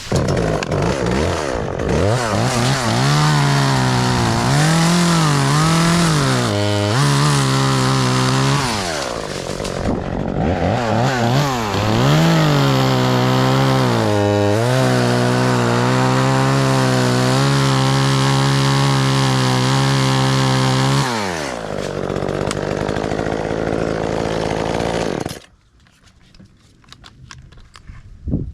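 Two-stroke chainsaw revved in short bursts, then held at steady high revs through a cut into a limb. About 21 seconds in it drops to idle, and it shuts off a few seconds later.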